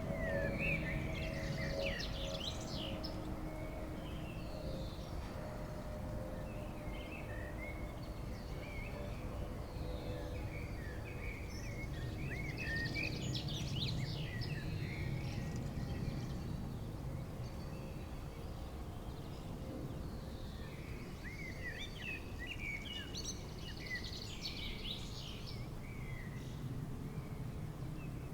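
Songbirds twittering in three bursts of quick chirps over a steady low rumble, while the drone of an airliner on landing approach fades away over the first several seconds.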